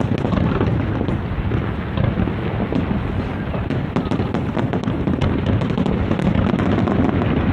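Aerial fireworks going off in quick succession: a continuous deep rumble of overlapping shell bursts, with many sharp crackling pops over it.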